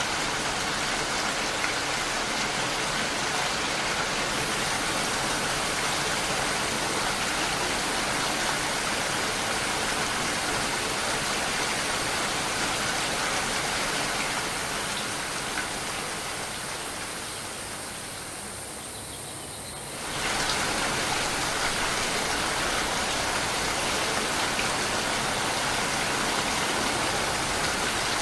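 Steady rain falling, an even hiss of drops. About two thirds of the way through it slowly fades quieter, then cuts back in suddenly at full strength.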